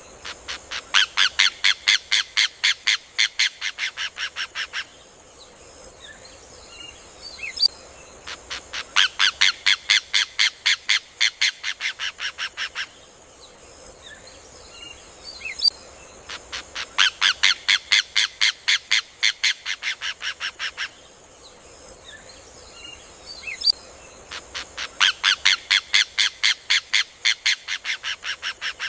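Rufous hornero (João-de-barro) singing: four bouts of loud, rapid repeated notes, about five a second, each lasting about four seconds and tailing off slightly, spaced about eight seconds apart. A steady high hiss sits underneath.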